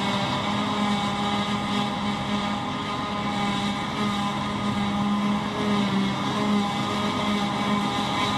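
An engine of farm machinery running steadily, its pitch wavering slightly up and down.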